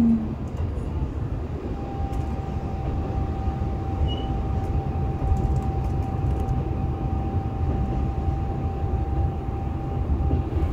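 Shimabara Railway diesel railcar running along the line, heard from inside the cabin: a steady low rumble of engine and wheels on the rails. A steady whine comes in about two seconds in and holds for most of the stretch.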